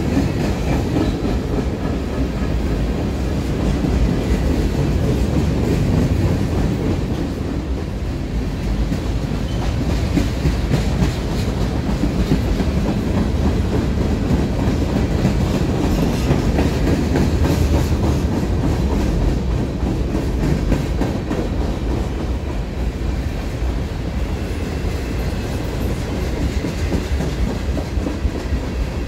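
Freight cars of a CSX manifest train rolling slowly past, their steel wheels rumbling and clicking steadily on the rails.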